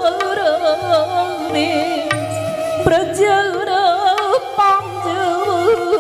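Live Manipuri classical dance music: a sung melody with wavering, ornamented slides, doubled by melodic instruments, over low drum strokes and occasional sharp clicks.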